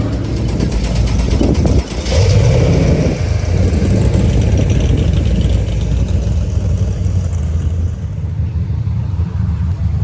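Car engine running loudly under throttle, with a brief dip about two seconds in before the revs come back up.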